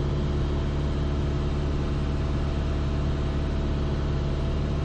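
Piper Archer's engine and propeller droning steadily at constant power, picked up in the cockpit through the pilot's headset.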